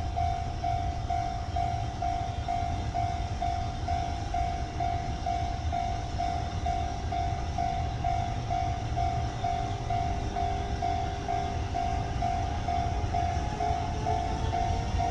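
Japanese level-crossing warning bell ringing steadily at about two strokes a second while a freight train rumbles past. A faint rising whine comes in near the end.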